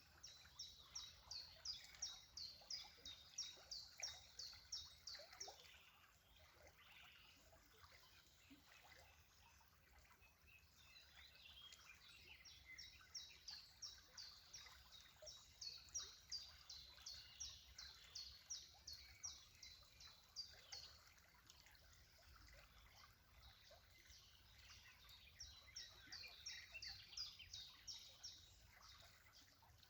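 A small songbird singing long runs of quick, evenly repeated high notes, about three a second, in three bursts of several seconds each, faint over a low background hiss.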